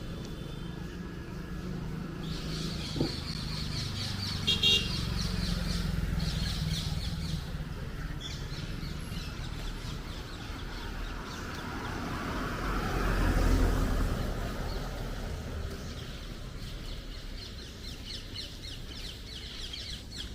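Street ambience with birds chirping in short repeated bursts over a steady low traffic hum. A vehicle passes close, swelling and fading about two-thirds of the way through.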